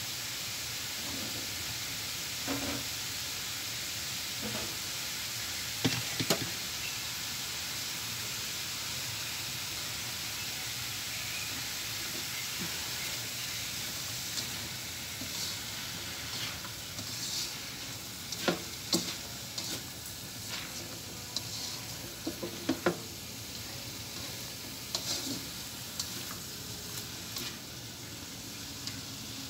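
Chopped pechay (bok choy) stalks sizzling in oil in a wok, with a spatula scraping and clacking against the pan as they are stirred. The clacks are occasional at first and come often in the second half.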